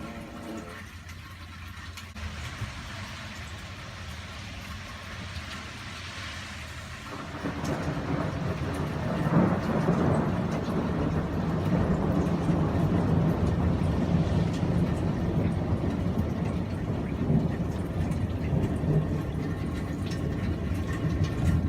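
Rain falling with a light hiss, then a long roll of thunder that builds about a third of the way in, peaks shortly after and keeps rumbling.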